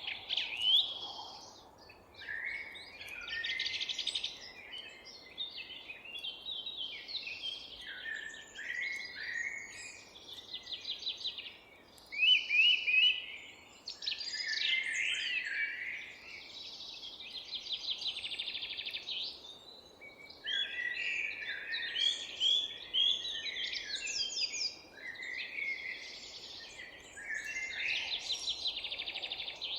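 Several songbirds singing and calling at once, with overlapping chirps and rapid trills following one another without a break, over a faint steady background hiss.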